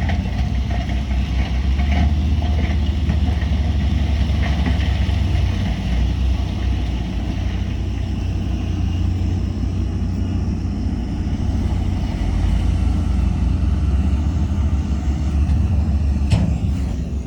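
Heavy diesel engine of earthmoving equipment running steadily with a deep, even rumble. A single sharp clank near the end.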